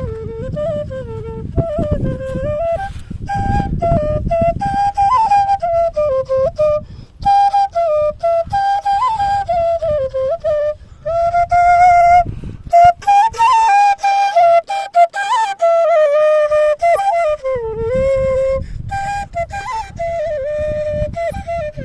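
Nepali bamboo flute (murali) playing a winding folk melody in one line, with short breaks between phrases. Wind rumbles on the microphone during parts of it.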